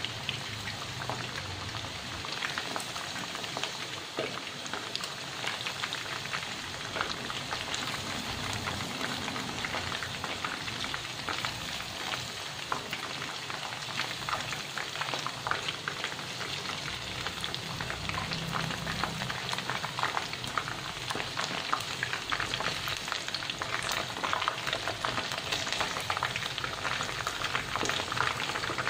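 Cornstarch-coated chicken pieces deep-frying in hot oil in a pan: a steady, dense sizzle full of fine crackles.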